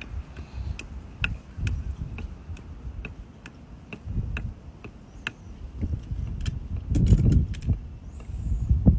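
Steady ticking about twice a second over a low, uneven truck engine rumble that swells louder about seven seconds in.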